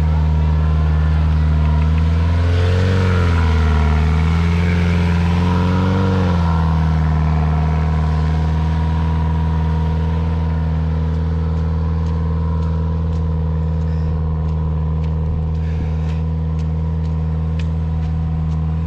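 Pickup truck engine pulling through deep mud, held at steady revs with two brief surges in revs a few seconds in. Faint ticks can be heard in the second half.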